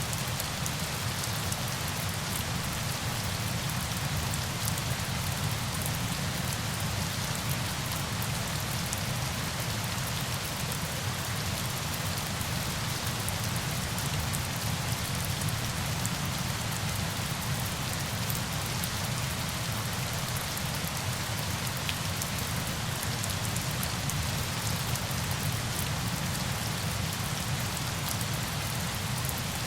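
Steady falling water: a dense, even hiss with faint scattered drop ticks in the highs and a low rumble underneath, unchanging throughout.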